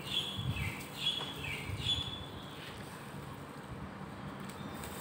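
A small bird chirping: a run of short, high calls about one every three-quarters of a second, some sliding down in pitch, that stop about two seconds in.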